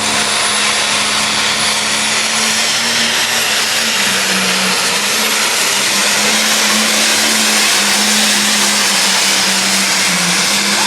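Turbocharged pulling tractor's diesel engine running hard under full throttle: a loud, steady drone whose pitch steps up and down a little, over a thin high whistle.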